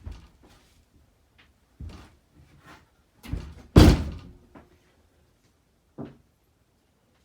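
A few scattered knocks and thumps, the loudest a heavy thud about four seconds in.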